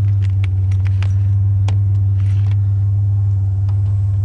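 A pickup truck's engine running with a steady low hum, with a few light clicks and rattles over it.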